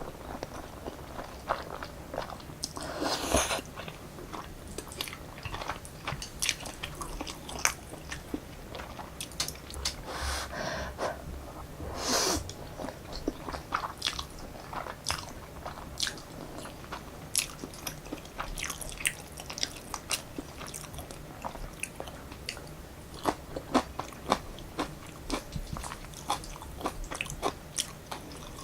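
Close-miked eating of instant black-bean noodles (Jjapaghetti): steady chewing full of small wet clicks, broken by a few longer slurps of noodles about 3, 10 and 12 seconds in.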